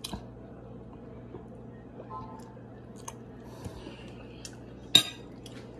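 Quiet chewing with small mouth clicks over a low hum, then one sharp clink about five seconds in as a metal fork is set down on the plate.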